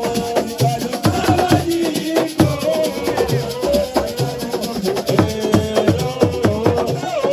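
Live assiko music: fast drumming and shaken rattles, with a held, wavering melody line over the beat.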